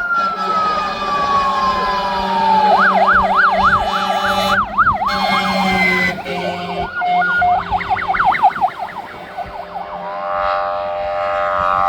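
Fire engine sirens passing in procession: a slow wail winding down, then switching to a fast yelp, yelping again a few seconds later, and a wail rising near the end, with several sirens overlapping.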